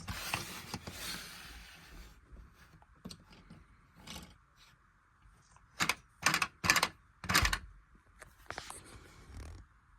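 A short rush of hissing noise, then a handful of irregular sharp clacks and knocks.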